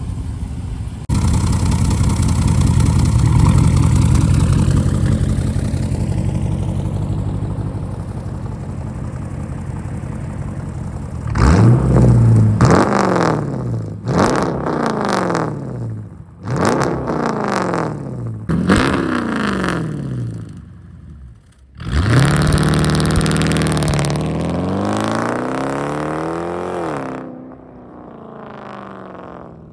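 Straight-piped Hemi V8 of a Jeep Grand Cherokee running loud for about ten seconds. It is then revved in five quick throttle blips, each rising and falling back, followed by one longer rev held for about five seconds before dropping back to a quiet idle near the end.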